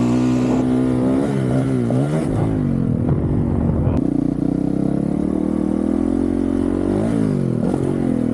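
Honda CRF450RL's single-cylinder four-stroke engine with a titanium Yoshimura RS-4 exhaust, running under throttle while being ridden. The pitch drops and climbs back twice, about a second or two in and again near the end, as the throttle is rolled off and back on.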